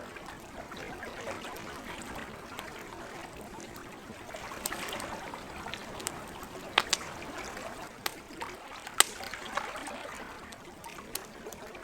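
Campfire crackling, with sharp pops scattered through it and the loudest about nine seconds in, over a steady wash of lake water.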